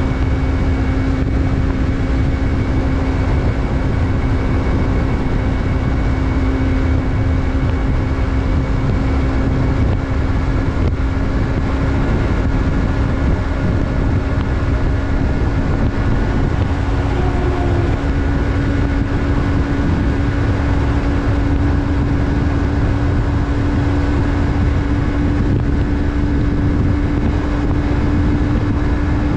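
Yamaha MT-03's 321 cc parallel-twin engine running at a steady cruise, its note creeping slightly higher over the stretch, with heavy wind rush on the camera microphone.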